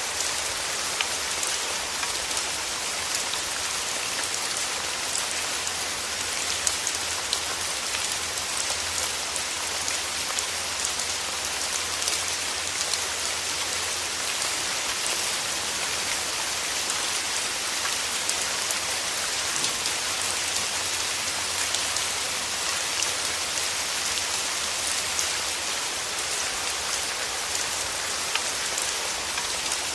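Steady rain falling: an even hiss strongest in the upper range, with many small separate drop hits scattered through it.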